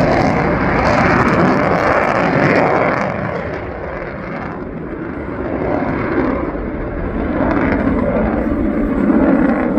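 F-35A Lightning II's Pratt & Whitney F135 jet engine passing in a display, a loud rushing jet noise that swells, eases off about four seconds in, then builds again near the end.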